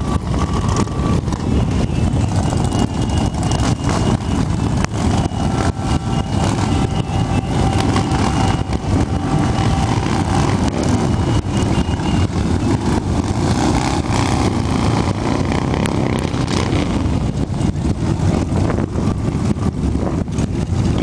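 Motorcycle engines running, a loud, steady low engine sound with no break.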